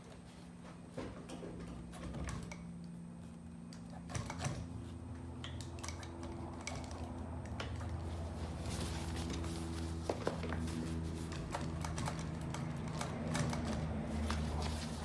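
Industrial sewing machine stitching: a steady motor hum under rapid needle clicking, getting louder from about eight seconds in.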